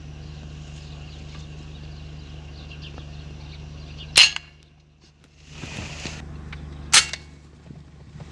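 Two air rifle shots, sharp cracks about three seconds apart, over a steady low hum, with a short hiss between them.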